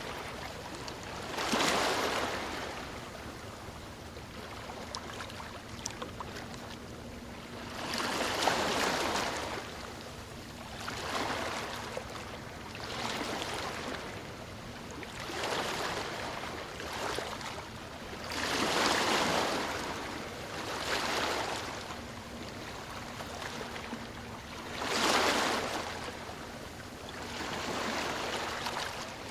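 Ocean waves breaking and washing up the shore, a surge of surf every few seconds over a steady wash, with the biggest waves near the start, about a quarter of the way in, and twice in the second half.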